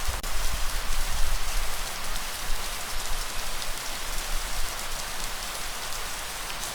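Steady light rain falling, an even hiss with scattered drop ticks, under a low rumble of breeze that is strongest in the first couple of seconds.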